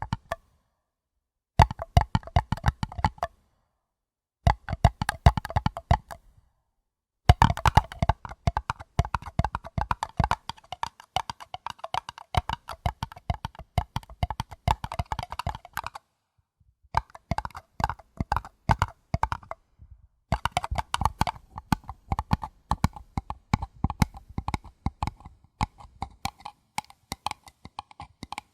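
Quick tapping on a paper cup in runs of several seconds, broken by a few brief silences. The cup gives the taps a light ring.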